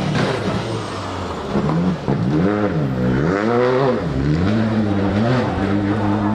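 Rally car engine at full throttle. Its pitch climbs and drops several times as it revs up and comes off the throttle.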